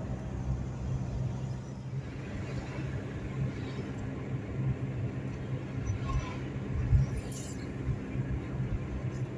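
A steady, low engine hum like a vehicle running, with a brief knock about seven seconds in.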